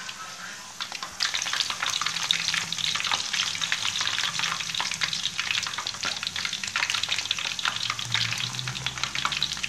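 Green banana slices, marinated in sugar, sizzling and crackling in hot oil in a wok as they are turned with chopsticks. The crackling gets louder about a second in and then keeps up a dense, steady spatter.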